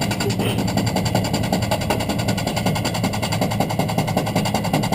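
Washing machine drum turning with hard objects inside, giving a fast, even rattle that goes on without a break.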